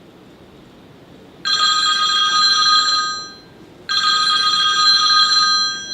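Telephone ringing twice, each ring a steady electronic trill lasting nearly two seconds, the first starting about a second and a half in.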